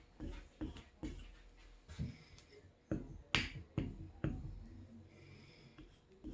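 Steel plane iron being stropped by hand on bare leather over a granite plate: irregular light clicks and taps as the blade is worked, the loudest about three and a half seconds in.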